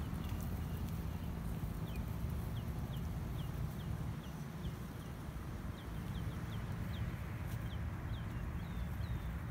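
A bird chirping over and over: short, high notes that slide downward, about two a second, with a pause in the middle. A steady low rumble runs underneath.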